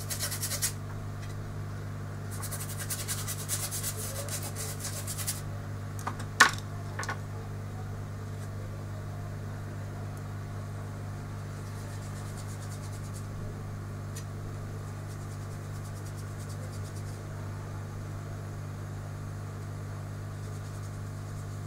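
Rapid fine scraping or rubbing in two short spells, then a sharp click about six seconds in, over a steady electrical hum.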